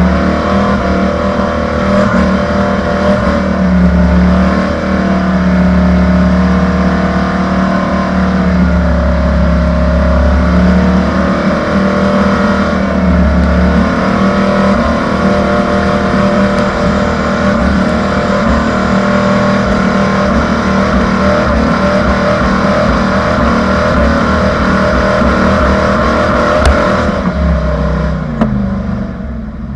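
Old Ford mud truck's engine running hard under load, its pitch rising and falling a little as the throttle changes; it eases off near the end.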